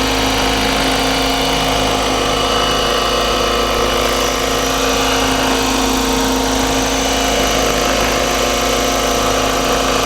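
Electric RC helicopter built on Align T-Rex 550e mechanics stretched to 600 size, hovering: a steady motor and rotor whine at an unchanging pitch, its head speed held constant by the governor.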